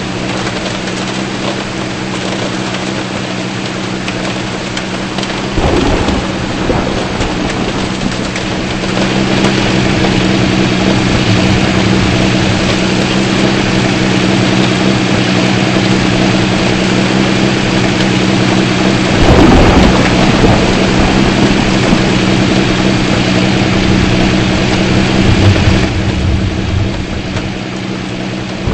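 Heavy rain pouring, growing louder about nine seconds in, with thunder rumbling twice, about five seconds in and again near twenty seconds. Under it runs a steady low hum from a vehicle.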